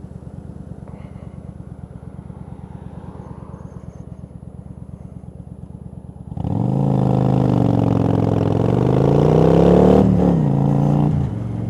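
Yamaha V-Star 1100's V-twin engine, running at a steady low pulse, then about six seconds in the throttle opens and it gets much louder, climbing in pitch as the bike accelerates. Near the end the pitch drops suddenly, as at a gear change, and it settles at a steadier, lower note.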